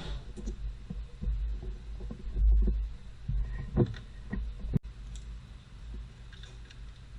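Irregular dull thumps and knocks, with a few sharp clicks.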